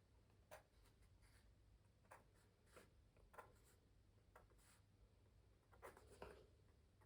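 Pencil drawing on canvas: short, faint scratching strokes, about eight of them at irregular intervals.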